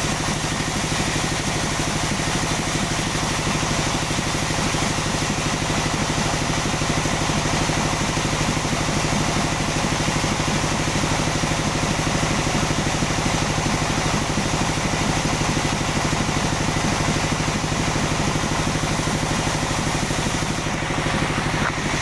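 Sawmill machine's engine running steadily at idle, with an even fast pulse and no cutting heard.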